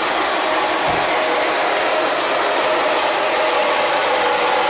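O gauge model trains running on the layout make a steady mechanical whir of motors and wheels on track, mixed with the MTH Proto-Sound 3 locomotive's digital diesel engine sound.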